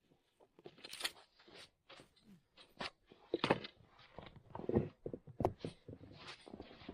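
Snow crunching in a string of irregular crunches, some louder than others.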